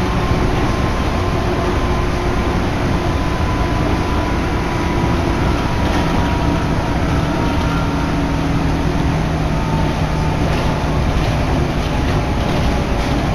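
Steady running noise of a Shin'etsu Line electric train heard from inside the carriage, a dense rumble with a few faint steady tones in it.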